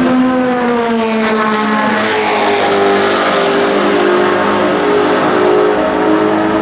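Dallara SP1 prototype's Judd V10 racing engine at high revs, its note falling in pitch over the first two seconds with a rush of noise as it goes by, then settling to a steadier note.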